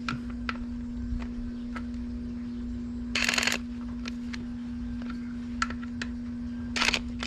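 Light clicks and taps of small outboard-carburetor parts being handled, over a steady low hum. A short noisy rush comes about three seconds in and a briefer one near the end.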